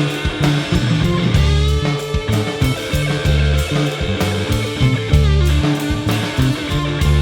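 Psychedelic rock band playing an instrumental passage: electric guitar over a pulsing bass line and drum kit.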